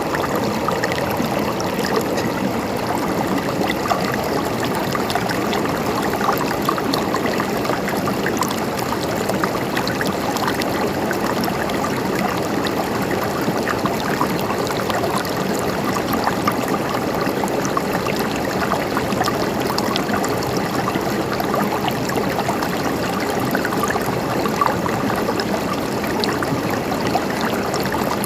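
Small stream of water flowing steadily over rocks, trickling and gurgling with many small splashes.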